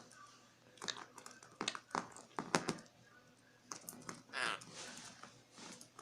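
Irregular sharp clicks and taps, as of a baby Quaker parrot handling and pecking at a small hard object, with a short raspy call from the bird about four and a half seconds in.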